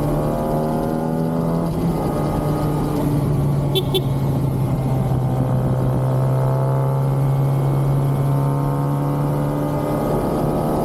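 Kawasaki ZX-6R's inline-four engine through its stock exhaust, running at a steady, almost unchanging speed while the bike cruises.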